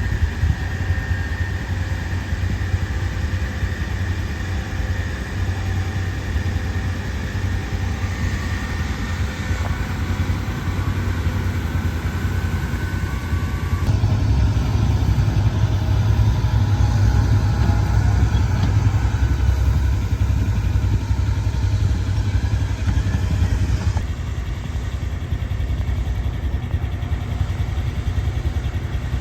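Fendt tractor's diesel engine running steadily with a deep rumble, growing louder about halfway through and easing back again near the end.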